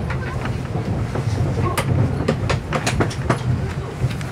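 Inside a 583-series electric train car pulling into a station: a steady low rumble with irregular sharp clicks and knocks from the wheels on the track.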